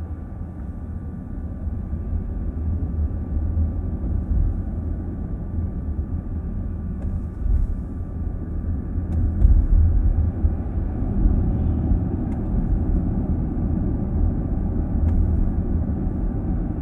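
Car driving at steady speed, heard from inside the cabin: a continuous low road and tyre rumble, with a few faint ticks.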